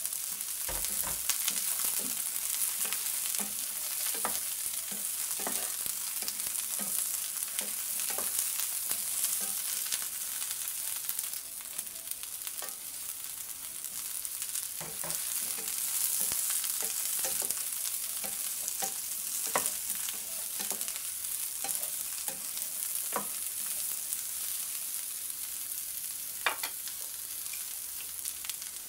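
Long beans, eggplant and carrot stir-frying in hot oil in a wok: a steady sizzling hiss, with scattered short clicks and knocks as pieces drop in and are stirred.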